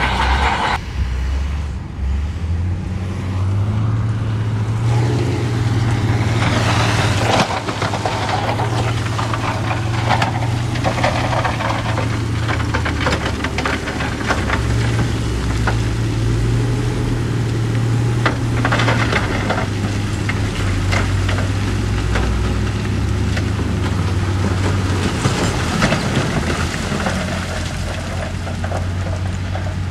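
Diesel engine of heavy earthmoving machinery running under varying load, a steady low drone that rises and falls. Several louder stretches of rattling, scraping noise lie over it, such as rock being pushed and dumped.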